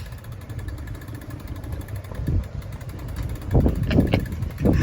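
A steady low mechanical rumble, like an engine running, with a few short knocks near the end.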